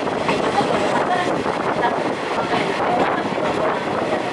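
Steady rushing noise of a moving train heard from an open-air trolley car: wheels running on the rails, with wind across the microphone.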